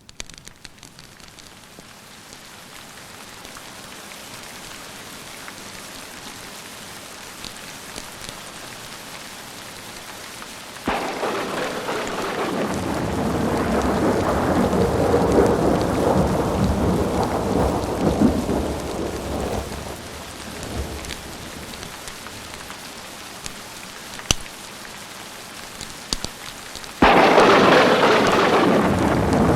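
Steady rain with thunder: a long rolling rumble breaks in suddenly about a third of the way in and dies away after several seconds, then a second, louder thunderclap cracks in near the end.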